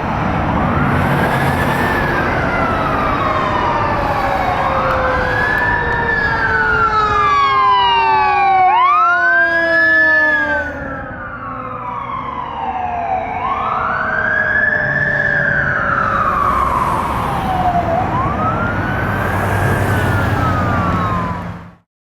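A 2018 E-One Cyclone fire engine responding with its siren on. The siren rises quickly and falls more slowly, over and over, with a burst of faster criss-crossing sweeps about eight to ten seconds in. The truck's low rumble runs underneath.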